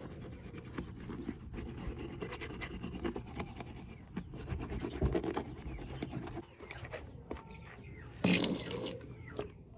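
Teeth being brushed with a toothbrush: a fast, continuous scrubbing. About eight seconds in comes a short, louder rush of noise.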